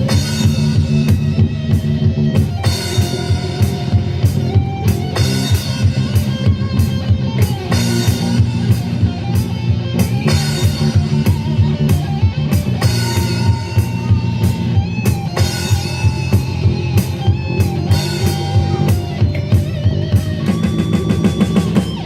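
Live rock band playing an instrumental passage: electric guitar and bass chords over a drum kit keeping a steady beat.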